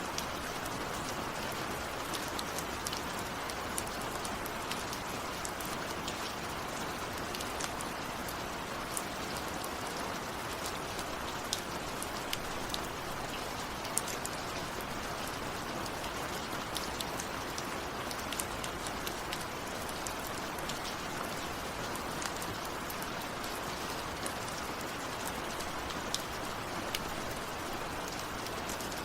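Steady rain falling, a constant hiss with many close individual drops pattering on a surface.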